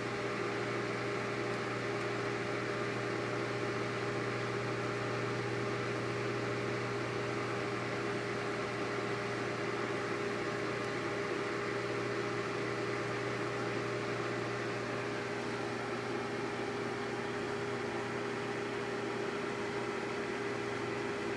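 Microwave oven running, a steady hum with an even hiss, while heating a bar of soap.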